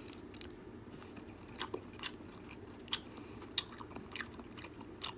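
A person chewing a mouthful of food close to the microphone: scattered wet mouth clicks and smacks, several a second at times, over a faint steady hum.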